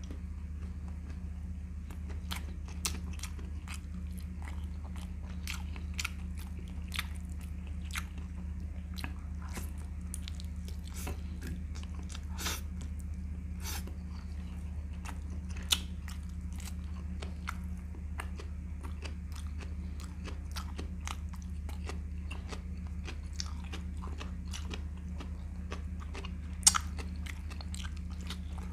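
Close-miked chewing of chicken and rice: a steady run of small wet mouth clicks and smacks, with a couple of sharper louder clicks in the second half, over a steady low hum.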